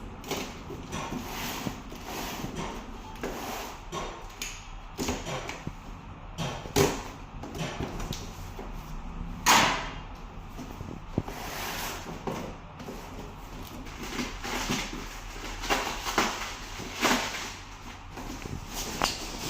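Cardboard box and packaging being handled and opened: irregular scrapes, rustles and knocks, the loudest a sharp knock about ten seconds in.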